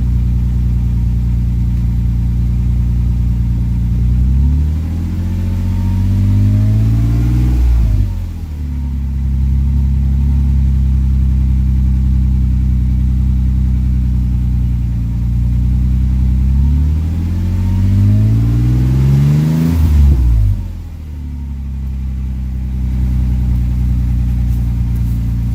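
Toyota Tacoma V6 idling through a Magnaflow straight-through round muffler with no tailpipe, which has broken off right at the muffler. The engine is revved twice, about 4 s and 17 s in: each time the revs climb steadily for a few seconds, then fall quickly back to idle.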